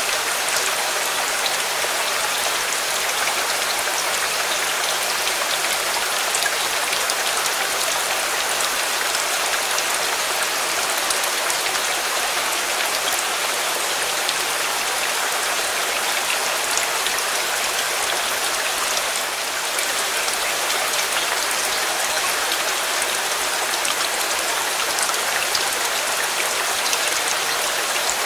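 Steady rain, a dense even hiss of falling water with many small drop ticks on surfaces.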